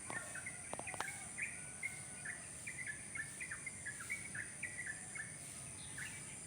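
Wild songbird calling a fast series of short chirping notes, about three a second, that stops near the end, over a steady high insect buzz. A couple of faint clicks about a second in.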